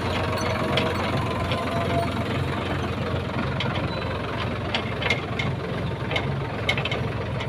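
Tractor diesel engine running steadily under way, a low, even drone with scattered light clicks and rattles.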